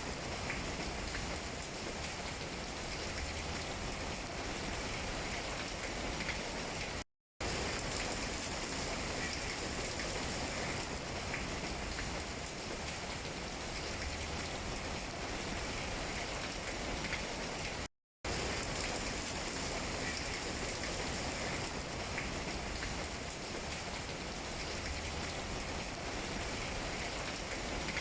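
Steady rain pattering on tree leaves, an even hiss with scattered drop ticks. The sound cuts out to silence for a split second twice.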